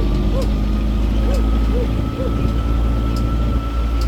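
City tour train running, its engine giving a steady low rumble, with a short squeak repeating about twice a second and a faint steady whine above.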